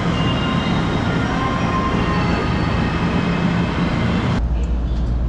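Steady running noise of an electric train at a station platform, with faint steady tones in it. About four seconds in it changes suddenly to a quieter, steady low hum from the stationary train.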